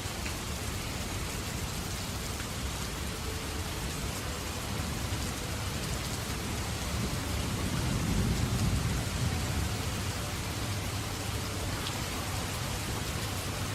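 Steady rain falling, with a low rumble of distant thunder swelling up and fading away in the middle.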